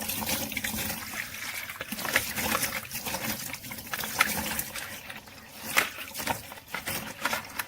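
Tap water running and splashing over a robot vacuum's plastic dust box as it is rinsed, with scattered knocks and splashes as the box is handled under the stream.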